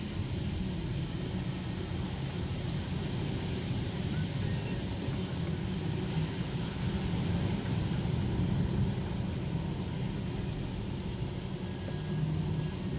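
Steady car engine and tyre noise heard from inside a moving car's cabin, a continuous low rumble.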